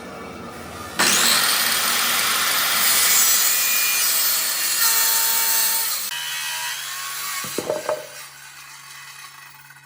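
A power tool cutting into wood: a loud, rough cutting noise starts suddenly about a second in, runs for about five seconds, then eases off. A few sharp knocks come near the end while the motor keeps up a steady low hum.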